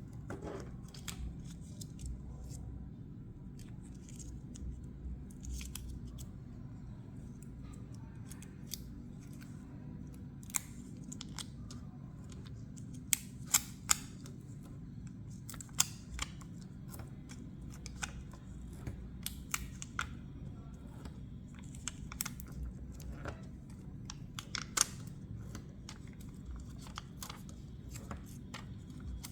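Irregular small clicks and taps of plastic buttons being picked up and pressed onto a paper picture, a few sharper clicks standing out, over a steady low hum.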